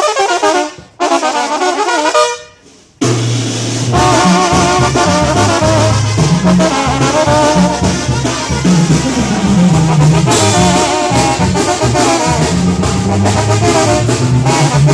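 Mexican banda (brass band) playing. It opens with short brass phrases broken by brief pauses, then about three seconds in the full band comes in, with a low bass line and drum hits under the melody.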